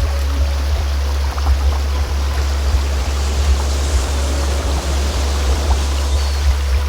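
A steady, loud low-pitched tone, a generated healing-frequency drone, under the even rushing of a running stream, with faint short high tones dotted through it.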